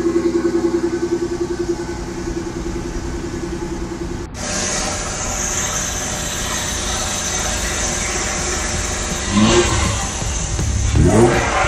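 BMW M50 inline-six engine in an E30 running with a steady pulsing note. After a cut it idles and is blipped twice in the last few seconds, the revs rising and dropping back quickly each time.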